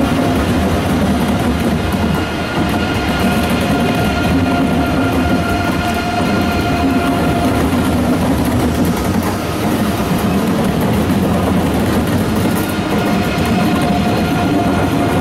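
Deutsche Bahn ICE 3 high-speed electric train rolling past, with a steady rumble of wheels on the rails and a steady electric whine from its drive equipment. The whine fades around the middle and comes back near the end as further cars go by.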